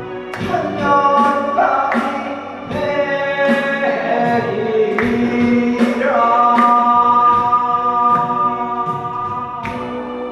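A singer performing a Korean pop ballad over backing music with a steady beat, holding one long note from about six seconds in.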